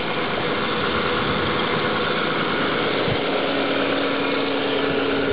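Nissan Skyline's 2.5-litre twin-cam 24-valve straight-six idling steadily, a little fast because the engine is still warming up. A faint steady hum joins about three seconds in.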